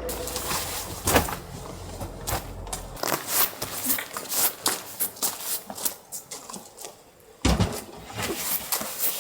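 A low engine hum that cuts off about three seconds in, with irregular clicks, knocks and rustling throughout and two heavier thumps, one about a second in and one near the end.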